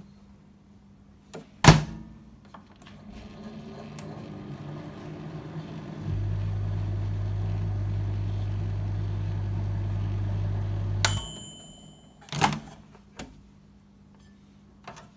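Microwave oven door shut with a clunk, then the oven runs: first a quiet fan-and-turntable whir, then about five seconds of loud, steady mains hum from the high-voltage transformer while it heats. The hum cuts off with a short beep, and the door clunks open again.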